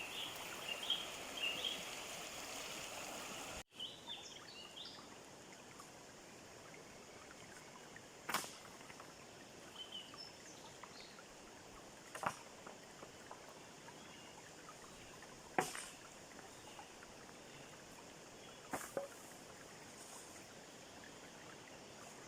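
Quiet forest ambience with faint high bird chirps. Four sharp snaps or knocks come a few seconds apart; the ambience changes abruptly about three and a half seconds in.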